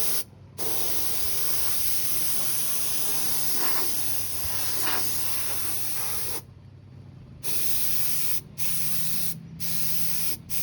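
Air-fed paint spray gun hissing as the trigger is pulled: one long pass of about six seconds, then several short bursts about a second apart, each starting and stopping sharply. A faint steady low hum runs underneath.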